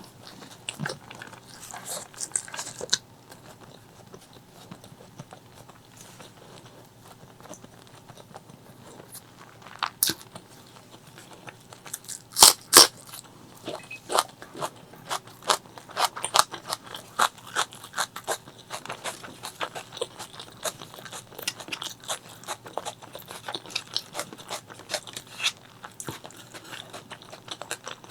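A person biting and chewing spicy chicken liver, gizzard and rice close to the microphone, with crisp crunching clicks. Two loud crunches come about halfway, then a quick, steady run of chewing clicks.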